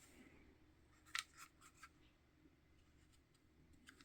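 Near silence broken by a few faint, short clicks: a small cluster of three or four a little after a second in, and another click near the end.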